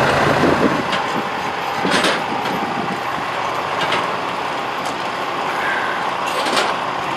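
1907 Avery steam traction engine hissing steadily, with a few sharp puffs roughly two seconds apart. A low rumble fades out within the first second.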